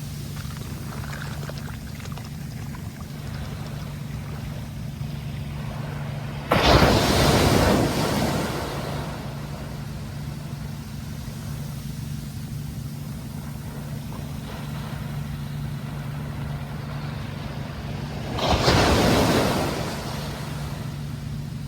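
Sea waves breaking twice, each a loud rushing crash lasting two to three seconds, the first about six and a half seconds in and the second near the end. Between them is a steady low hum.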